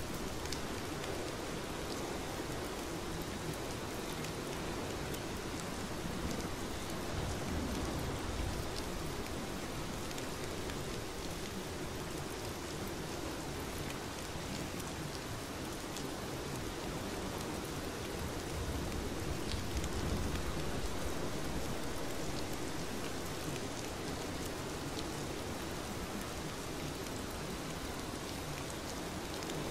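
Steady rain: an even hiss with scattered drop ticks, swelling slightly twice.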